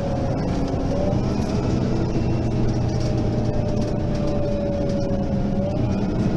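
Mercedes-Benz Citaro facelift city bus running under way, its diesel drone carrying a steady whine that steps up in pitch about a second in and again near the end.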